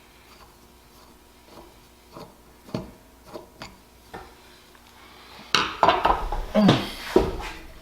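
Metal tools and small carburetor parts clicking and clattering during carburetor disassembly: light ticks at first, then a louder burst of clattering during the last two seconds or so.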